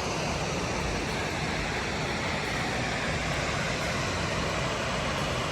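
Steady rushing of water from a small waterfall in a rock gorge.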